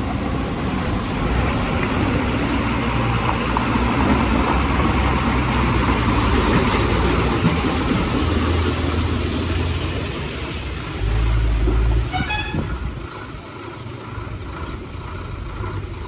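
Heavy loaded truck engine running under strain, with a louder surge about eleven seconds in. A brief horn toot follows just after.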